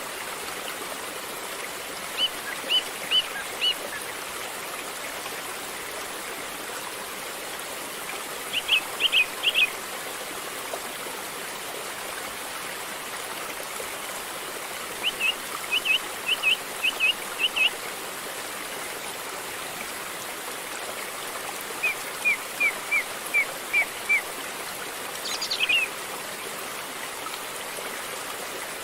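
River water flowing in a steady rush. A bird sings short runs of four to six quick high notes every six seconds or so, with one higher call near the end.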